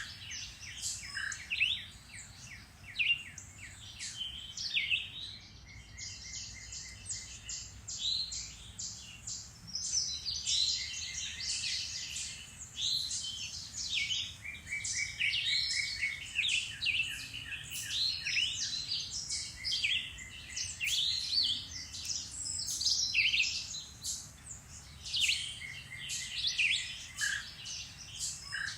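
Several songbirds singing and chirping at once, a dense chorus of overlapping trills, rapid note series and short calls.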